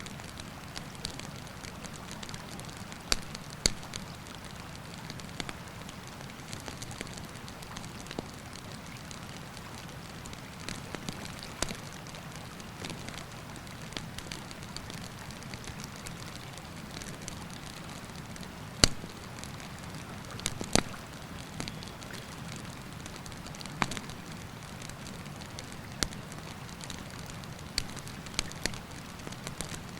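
Wood campfire crackling, with irregular sharp pops and snaps, two of them louder a little past halfway, over a steady rush of river water.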